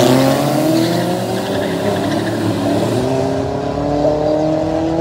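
Car engine accelerating hard, its pitch climbing steadily, then dropping back about three seconds in at a gear change and climbing again.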